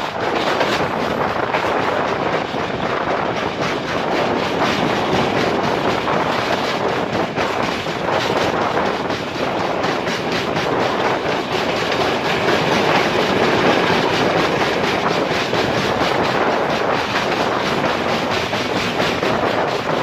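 Passenger express train running at speed: a steady rolling rush with wheels clicking over the rail joints.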